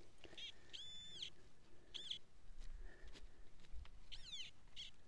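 Faint bird calls: about five short, high chirps that rise and fall in pitch, with one longer call about a second in.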